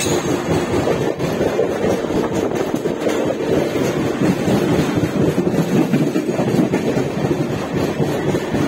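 Passenger train running along the track, heard from on board: a steady rumble of wheels and carriage with wind buffeting the microphone.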